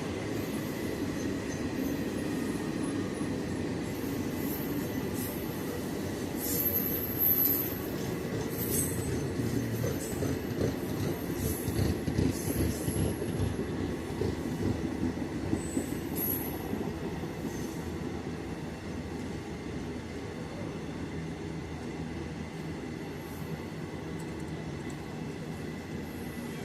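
Train running on the rails with a steady rumble, and short high wheel squeals and clanks that come thickest and loudest between about 6 and 17 seconds in before easing off.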